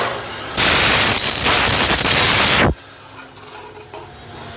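Makita miter saw cutting through aluminum: a loud, harsh cut with a steady high whine that lasts about two seconds and stops abruptly. The blade then runs on more quietly.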